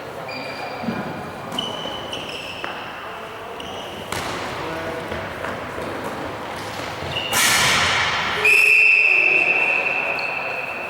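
Tchoukball play in a sports hall: short sneaker squeaks on the court floor and thuds of the ball. About seven seconds in comes a louder noisy burst, followed by a long, high, steady tone that slowly fades.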